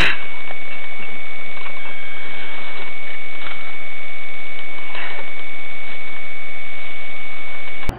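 Loud steady noise with a constant high-pitched whine running through it, cut off abruptly near the end.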